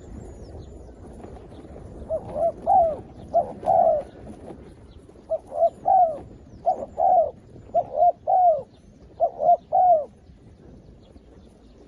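Zebra dove cooing: about seven short phrases of quick staccato coos, each phrase two or three rising-and-falling notes, starting about two seconds in and stopping near the ten-second mark.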